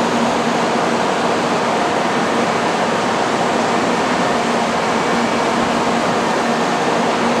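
Tokaido Shinkansen train passing through the station at reduced speed: a steady loud rush of wheel and air noise with a faint hum underneath.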